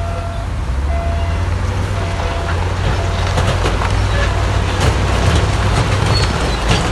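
Heavy diesel earthmoving machinery running with a steady low rumble, with a repeating short beep about once a second in the first half. Sharp cracks and clatters from the middle on, the loudest near the end, fit rock being broken and shifted.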